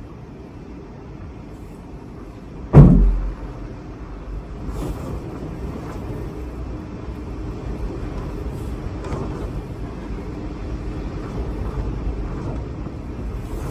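Strong wind gusting and buffeting the microphone with a low rumble that builds gradually, broken by one loud thump about three seconds in.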